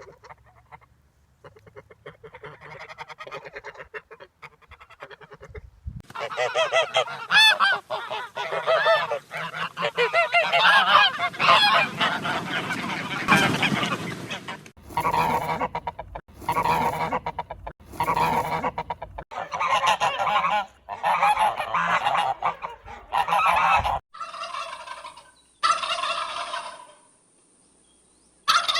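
Domestic geese honking: repeated loud honks, many overlapping in a dense stretch, then separate calls, with abrupt changes where clips are cut together.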